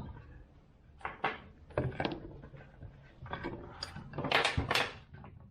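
Loose metal tools and parts clinking and rattling as they are rummaged through. There are short scattered knocks, with the loudest cluster about four to five seconds in.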